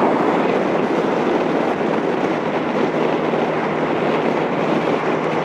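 Yamaha R1's inline-four engine running steadily under a loud, even rush of wind noise on the microphone while riding at speed.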